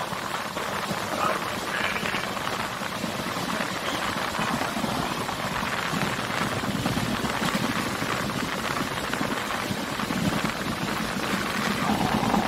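Passenger train running, heard from inside the coach: a steady rumble and rush of wheels on the track and air moving past the carriage.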